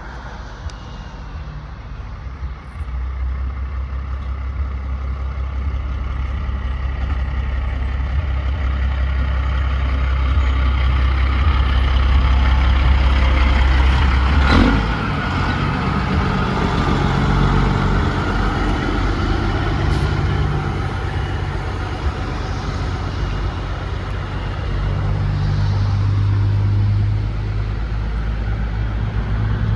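Heavy truck's diesel engine running loud and close, its deep drone building over the first half. About halfway there is a short sharp sound and the engine note changes, then the engine runs on.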